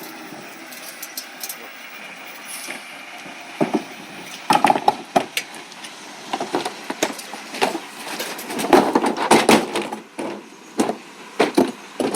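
Recycling truck running, with a run of sharp knocks and clattering from about three and a half seconds in, thickest near the end.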